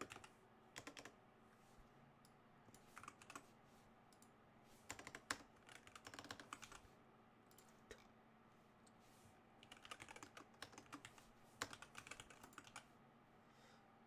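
Faint computer keyboard typing in several short bursts of key clicks with pauses between them, as lines of code are entered.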